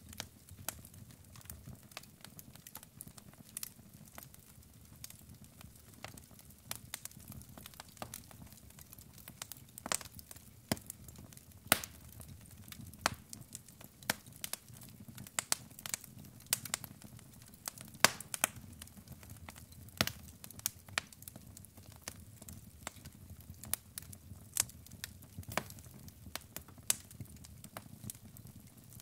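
Wood fire burning in a fireplace: logs crackling and popping in sharp, irregular snaps over a low, steady rumble of flame.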